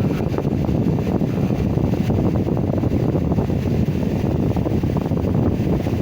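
Air conditioner running on its newly fitted compressor, with the condenser fan giving a steady low noise, while the unit is still being charged with refrigerant and is undercharged.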